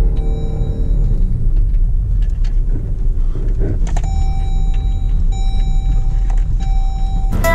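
Jeep engine running under load as the SUV plows through deep snow, with a heavy low rumble and the revs rising and falling early on. A steady high tone sounds from about four seconds in.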